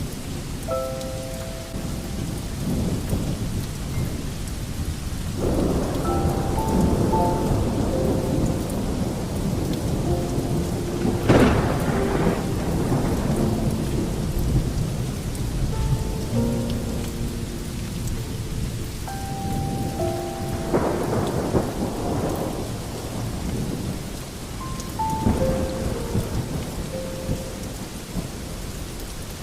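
Steady rain with a thunderstorm. Thunder swells up about five seconds in, a sharp crack of thunder comes near twelve seconds, and more rolls follow around twenty and twenty-five seconds. Short, soft held tones are mixed in over the rain.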